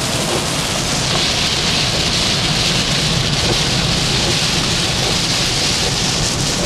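Heavy rain falling hard on the car, a dense even hiss that grows stronger about a second in, over a low steady rumble.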